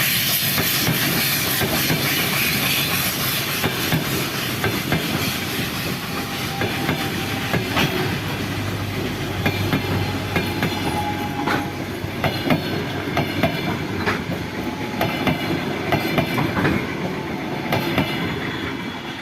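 Wheels of a train hauled by a steam locomotive clacking over rail joints as the wagons roll by, a dense run of sharp clicks over a steady rumble. A high steam hiss fades out in the first few seconds.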